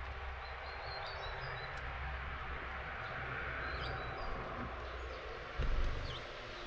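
Steady rain with a few brief, high chirps from small songbirds at a garden feeder. A short low thump comes about five and a half seconds in.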